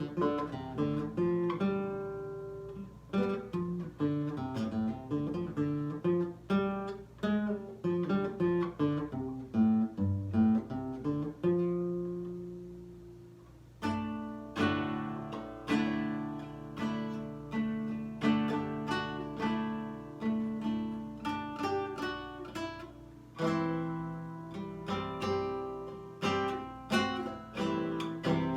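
Lyle nylon-string guitar played solo: a quick run of plucked single notes and arpeggios, then a chord left to ring out and fade about halfway through. After that come fuller struck chords.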